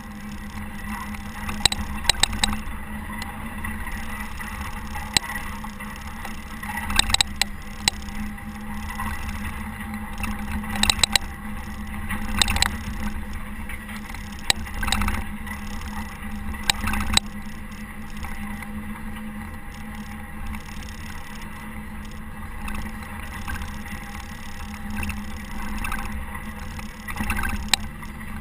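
Caterpillar TH330B telehandler's diesel engine running steadily while plowing snow, with sharp knocks and clatters every few seconds.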